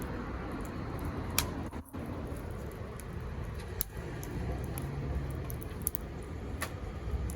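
Wood fire crackling, with a handful of sharp pops over a steady low rumble.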